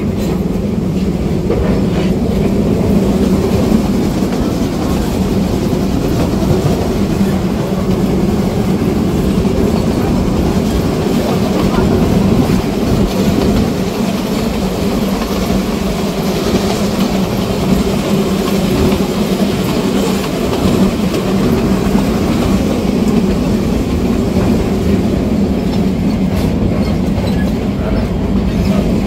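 Steam train running along the track, heard from an open-sided passenger carriage: the steady noise of wheels on rails and the carriage rattling along.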